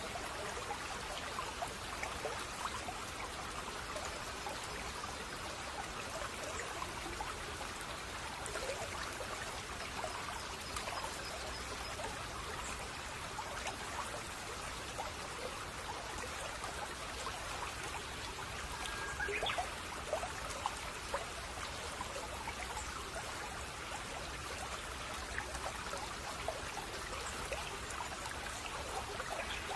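Babbling brook: shallow water trickling and splashing steadily over stones.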